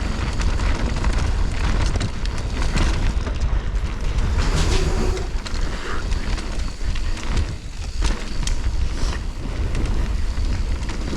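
Wind rumbling on the camera microphone while riding a mountain bike downhill, with tyre noise on the dirt and frequent short clicks and rattles from the bike over rough ground.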